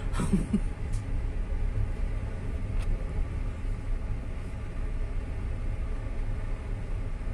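Steady low rumble of a moving passenger train, heard from inside the carriage, with a couple of faint clicks.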